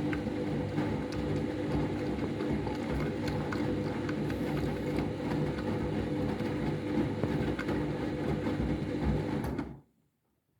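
Washing machine running a deep rinse cycle: a steady motor hum over a low, pulsing churn of the drum, with faint ticks, cutting off suddenly near the end.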